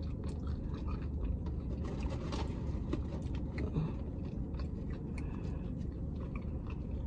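A person chewing a mouthful of food close to the microphone, with many small, quick mouth clicks over a steady low hum.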